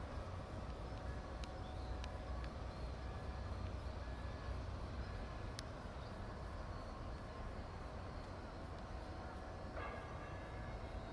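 Steady low rumble with faint steady hums of distant shipyard machinery, a few sharp ticks, and a short clatter about ten seconds in.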